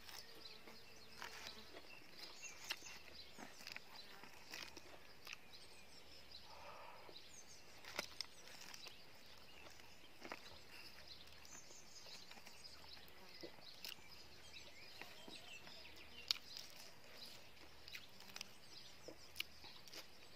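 Quiet eating sounds: a person chewing food eaten by hand, with scattered small mouth and finger clicks, over faint outdoor background hiss.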